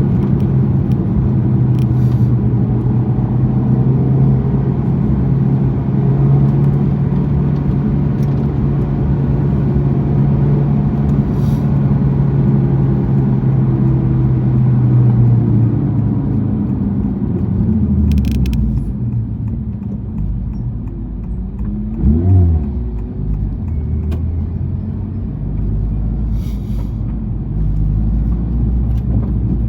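Honda Civic Type R FL5's turbocharged 2.0-litre four-cylinder through a Mugen exhaust, running at a steady pull. About halfway through the driver lifts off and the note drops, there is a quick throttle blip about three-quarters through, and the engine then runs at low revs with a rumble.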